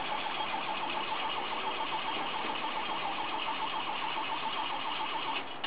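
Third-generation Chevrolet Camaro's engine being cranked on the starter: a steady whirring with an even, repeating pulse. It stops abruptly shortly before the end.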